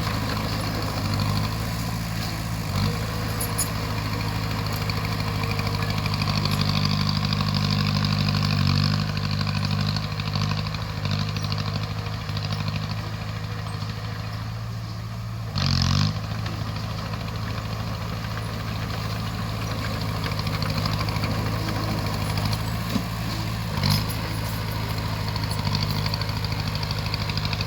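Crawler bulldozer's diesel engine running steadily, with a few short knocks or clanks, the loudest about halfway through.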